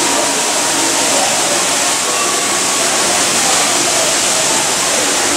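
Indoor lobby waterfall splashing steadily into its pool, a constant loud rush of falling water.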